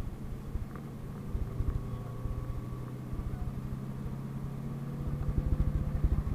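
PAZ-32054 bus engine running at a steady pitch, heard from inside the cabin, with low rumbling thuds from the ride that grow louder near the end.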